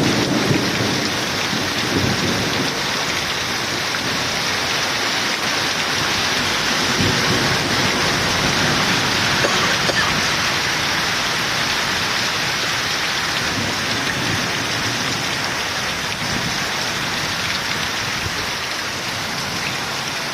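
Heavy rain pouring steadily in a loud, even hiss, with low rumbles of thunder in the first several seconds.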